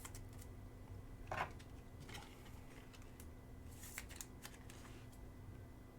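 Faint rustling and light clicks of trading cards being handled, a short rustle about a second and a half in and scattered soft clicks after it.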